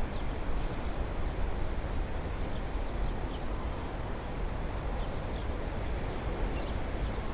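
Wind blowing across a clip-on lapel microphone, a steady low rumble, with a few faint bird chirps over it.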